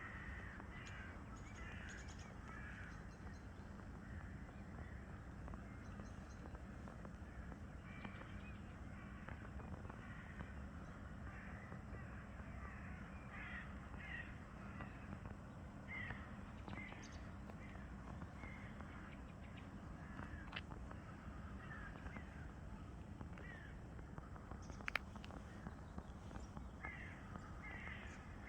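Crows cawing again and again, short calls coming in loose clusters throughout, over a steady low background rumble, with one sharp click near the end.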